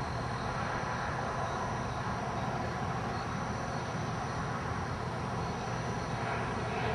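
Steady vehicle rumble with an even hiss, unchanging throughout.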